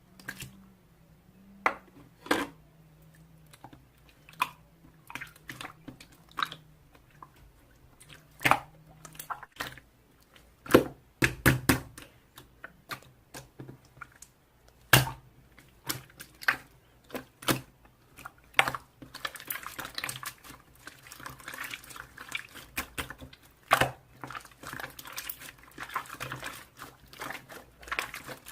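Slime being squished and poked by hand, giving irregular sticky clicks and pops, with denser crackling from about two-thirds of the way through.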